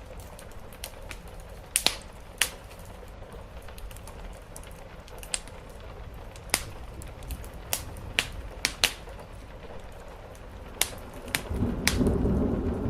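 Wood fire crackling with about a dozen sharp, irregular pops over a steady hiss of rain. A low rumble swells louder in the last second and a half.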